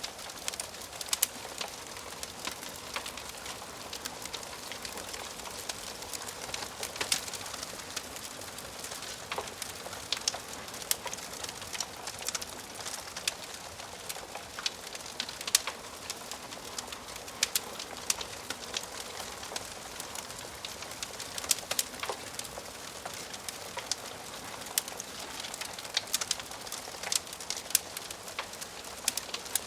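Wood fire crackling in a fireplace: a steady soft hiss with frequent sharp pops and snaps scattered irregularly throughout. A faint falling tone sounds twice, about a third of the way in and again past the two-thirds mark.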